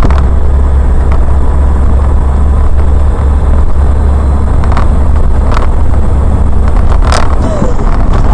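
Vehicle running noise picked up by a dashcam: a loud, steady low rumble of engine and road, with a few light clicks in the second half.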